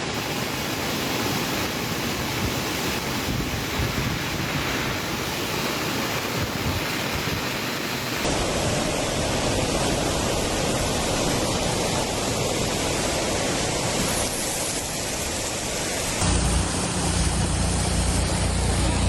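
Steady roar of rushing floodwater, in three clips spliced together; about 16 s in a deeper low rumble comes in under it.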